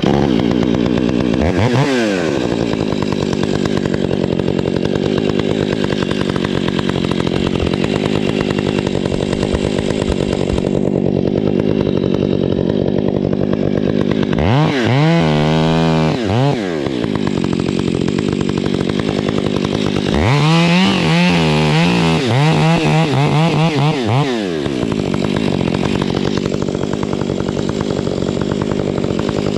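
Stihl MS 661 two-stroke gas chainsaw idling steadily, revved up briefly about two seconds in, again around halfway, and held high for about four seconds near two-thirds of the way through before dropping back to idle.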